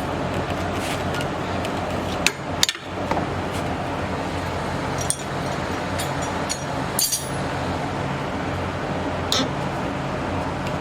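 A few sharp metallic clinks and knocks of hand tools and parts, about five in all, over the steady noise of a shop fan.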